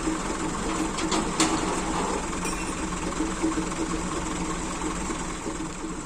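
An engine idling steadily with a fast mechanical rattle, and a few short clicks or knocks about a second in.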